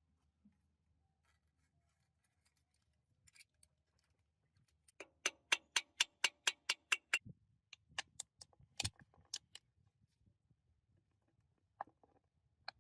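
A quick run of light metal-on-metal taps, about five a second for two seconds, with a faint ring from the struck part, followed by a few scattered clicks and knocks.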